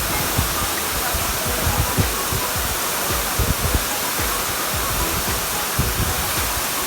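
Waterfall roaring, a steady rushing of falling water, with irregular low thumps mixed in.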